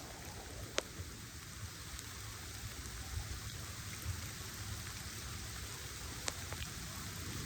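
Steady rain falling, a continuous even hiss, with a few sharp ticks of single drops striking close by.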